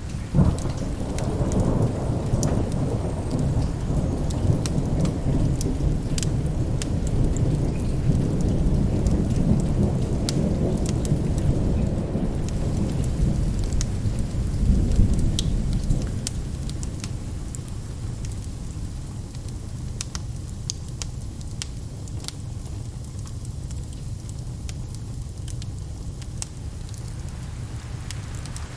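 Thunderstorm: steady rain with a long roll of thunder that breaks out suddenly at the start, rumbles for about fifteen seconds and then fades. Scattered sharp ticks sound throughout.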